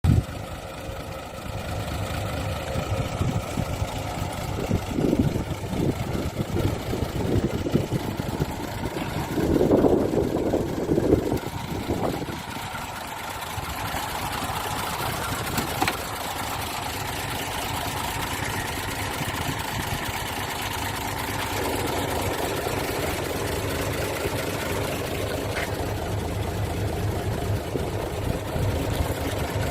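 Diesel engine of a 1992 Mitsubishi Fuso Fighter truck running. It is louder and uneven from about 5 to 12 seconds in, then settles into a steady idle.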